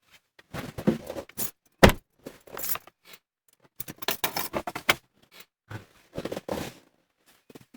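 A run of handling noises: rustling and scraping broken by clicks, with one sharp click about two seconds in that is the loudest.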